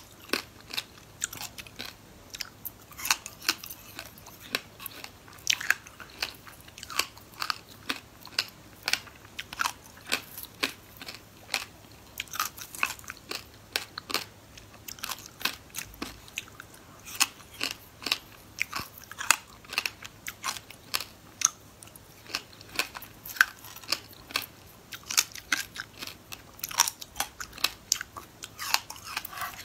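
Crunchy biting and chewing of frozen passion fruit pieces, with a steady run of sharp crunches about one or two a second.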